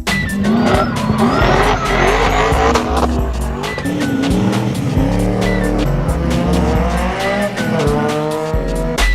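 A car driven hard: tyres squealing and the engine revving, climbing in pitch in the second half, with music faintly underneath.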